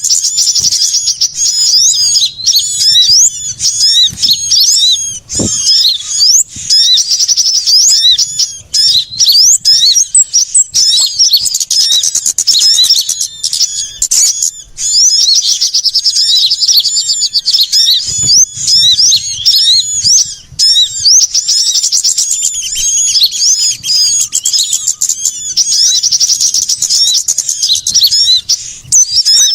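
Bird-luring recording of a busy chorus of small songbirds, many rapid high-pitched chirps, twitters and trills overlapping without a pause, made to draw small birds such as sunbirds in.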